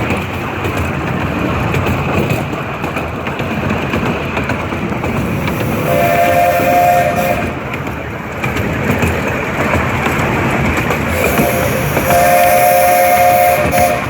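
Small steam train running on the rails with a steady rumble and clatter, as the steam locomotive's whistle sounds a two-note chord: one blast about six seconds in, then a short blast and a longer one near the end.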